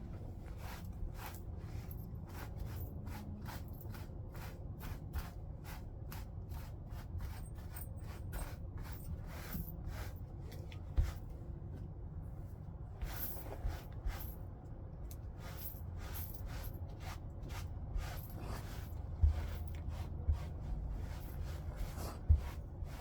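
Flintknapping a stone point: a steady run of short, sharp clicks and scrapes of tool on stone, about two or three a second, with a few louder knocks about eleven seconds in and near the end.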